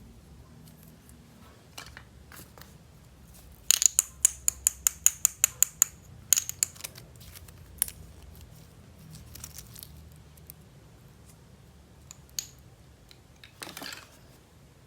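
Handling a plastic toy and its packaging: a quick run of about a dozen sharp clicks over two seconds, then a few scattered clicks, and a short rustle near the end.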